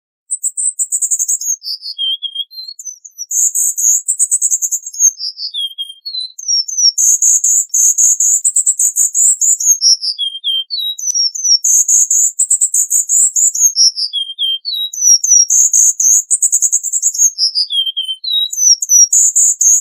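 Cuban bullfinch singing, in a rapid run of repeated phrases. Each phrase is a high, fast trill followed by a string of short notes that slide down in pitch.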